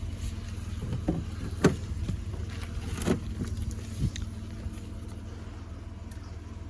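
A car engine idling steadily as it warms up on a cold day, a low even rumble, with a few sharp crunches or knocks in the first four seconds.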